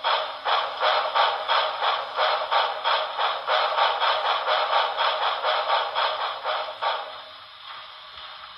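HO-scale Paragon4 sound decoder playing steam exhaust chuffs from the model Hudson's speaker, about three a second over a faint steady hum, while the locomotive pulls under load on a pulling-power test. The chuffs stop about seven seconds in.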